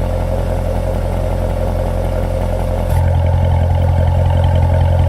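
Chevrolet C7 Corvette's LT1 V8 exhaust idling steadily as the drive-mode switch is changed. About three seconds in the idle note steps up, getting louder and fuller, as the mode changes.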